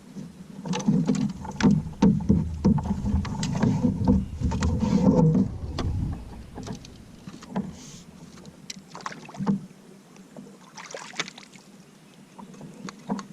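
Handling noise aboard a kayak: a run of bumps and knocks against the hull for about six seconds, then lighter scattered clicks and rustles.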